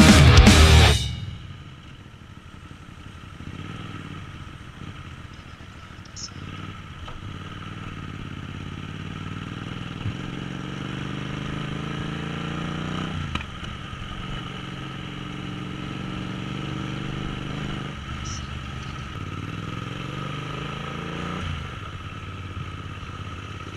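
Kasinski Mirage 250's V-twin engine pulling through the gears while riding: the pitch climbs steadily, drops sharply at an upshift about 13 seconds in and again about 21 seconds in, then climbs again.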